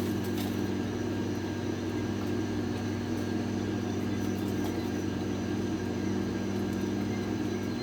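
A steady low hum, like a small motor or electrical appliance, holding one pitch throughout.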